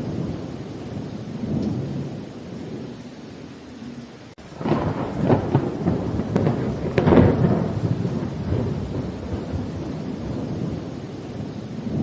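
Thunderstorm with steady rain and a low rumble of thunder. About four and a half seconds in, a nearer clap of thunder breaks in, crackling for a few seconds and loudest about seven seconds in, then settles back to a lower rumble under the rain.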